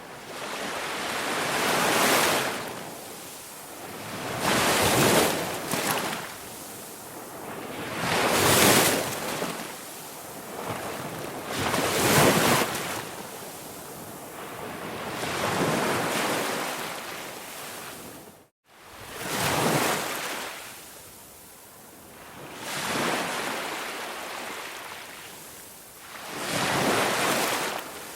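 Ocean waves washing in slow, regular swells, one about every three and a half to four seconds, each rising and then draining away. About two-thirds through there is a brief sudden gap of silence.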